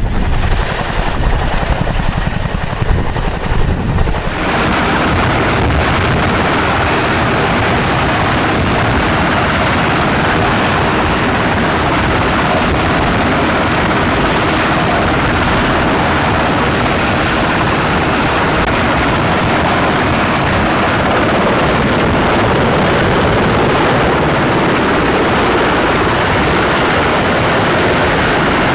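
Helicopter turbine and rotor noise, heard up close as a steady, dense rush with a faint high whine. The first few seconds are gusty buffeting on the microphone, then the sound changes abruptly to the steady run.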